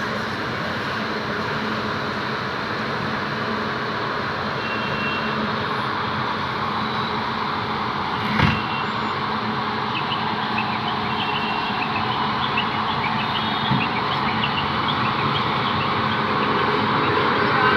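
A WAG-9 electric locomotive hauling a passenger train as it departs, a steady running rumble that grows louder toward the end, with a single knock about eight seconds in.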